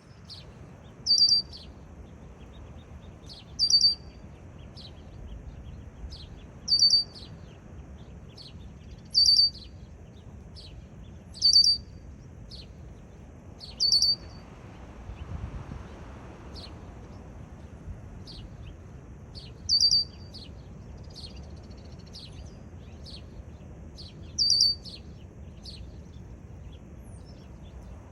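Red-winged blackbird calling over and over: a short, loud, high call about every two to three seconds, eight in all, with fainter chirps in between.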